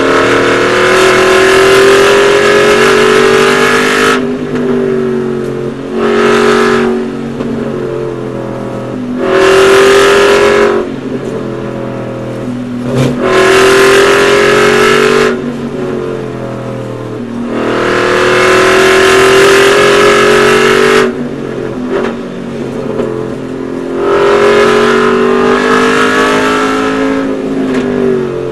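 Aston Martin Vantage GT4's V8 race engine heard from inside the cockpit, alternating between loud full-throttle pulls of a few seconds each and quieter spells as the driver lifts and brakes for corners. There are about six pulls, with the engine note rising during each one.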